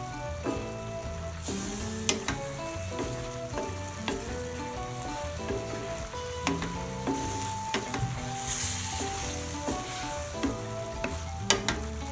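Squid adobo sizzling in a stainless steel pan as a wooden spatula stirs it, scraping through the sauce, with a few sharp knocks of the spatula against the pan.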